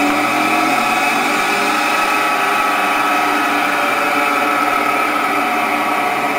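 A car engine running steadily, heard as the soundtrack of a video being played back through the car's audio system.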